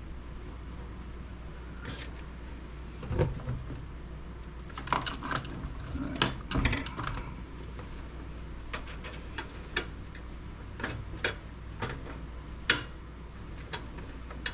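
Irregular light metallic clicks, taps and clinks of screwdriver bits and small hand tools being handled and tried on a screw inside a computer case, with a steady low hum underneath.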